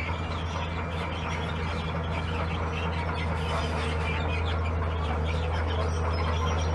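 Heavy earthmoving machinery's diesel engine running with a steady low hum, with scattered high squeaks and chirps over it.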